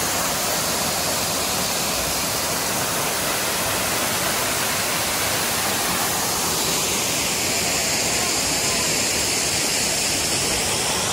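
Waterfall pouring down, a steady, even rush of falling water.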